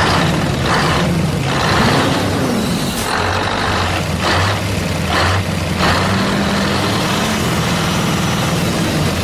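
Small motor of a DIY mini tractor model running steadily, its pitch rising and falling, with repeated short hissing bursts over it.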